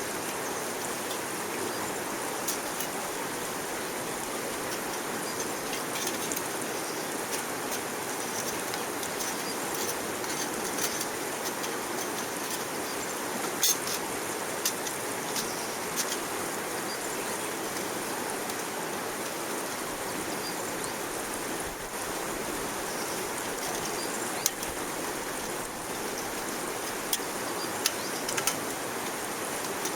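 Small wood fire burning in a backpacking wood stove: a steady rushing sound with scattered sharp crackles and pops.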